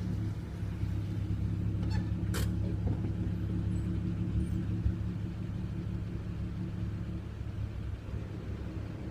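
Mk4 VW Golf R32's 3.2-litre VR6 running at a steady speed through its stock exhaust, a low, even rumble. A short sharp click sounds about two and a half seconds in.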